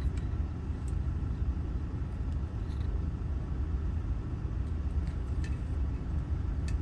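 A steady low rumble, like a vehicle engine idling, with a few faint light clicks from small ignition lock cylinder parts being handled.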